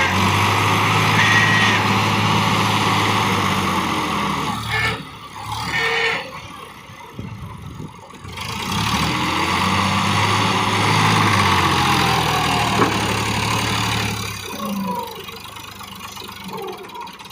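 Massey Ferguson 260 tractor's three-cylinder diesel engine running under throttle, easing off to a lower, quieter note about five seconds in, picking up again a few seconds later, then easing off once more near the end.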